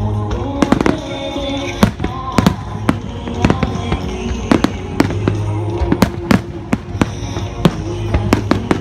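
Fireworks shells bursting in quick succession, about two sharp bangs a second, over music played through loudspeakers.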